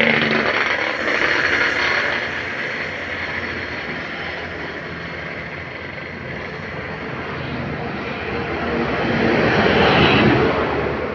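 Heavy vehicles passing close on a road: the rushing sound of engines and tyres swells near the start, dies down, and swells again about ten seconds in as another goes by.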